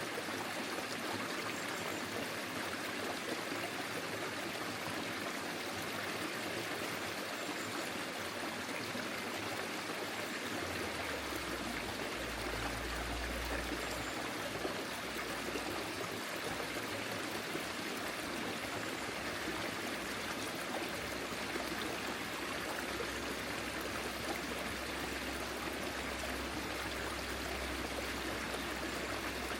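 Forest stream flowing steadily, an even rush and trickle of water over stones. A low rumble joins underneath about a third of the way in.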